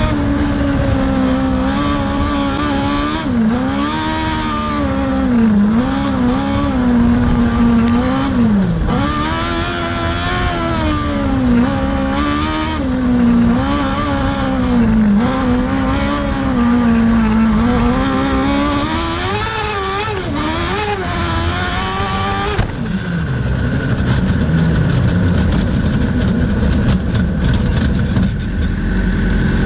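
Crosskart engine revving up and down repeatedly as the kart is driven hard, its pitch climbing and falling with throttle and gear changes. About 23 seconds in the revs drop suddenly and the engine settles to a lower, steadier running.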